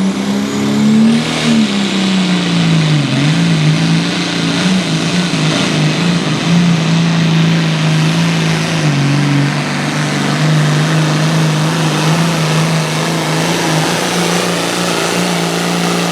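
Classic super stock pulling tractor's engine running hard at high, steady revs under load down the track. The pitch dips and climbs back about three seconds in, then holds nearly constant.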